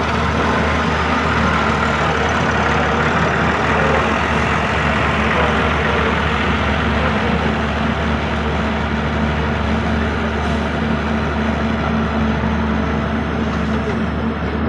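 The diesel engine of a 1998 John Deere excavator running steadily at an even speed.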